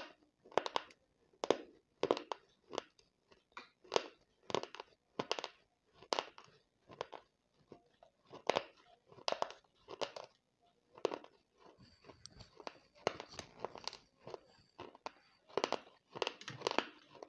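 Close-up mouth sounds of someone chewing baked clay pot crumbles: short, sharp crunches about one and a half a second, softening into quieter grinding for a few seconds past the middle.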